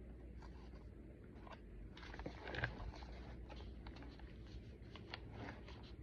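Paper pages and inserts of a thick handmade junk journal rustling as they are handled and turned, with scattered light taps and a louder rustle about two and a half seconds in.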